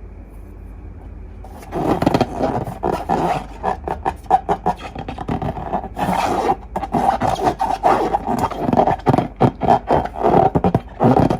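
Hands working long rubber balloons and slime, a dense run of irregular rubbing and scraping noises with many short squeaky spikes, starting about a second and a half in.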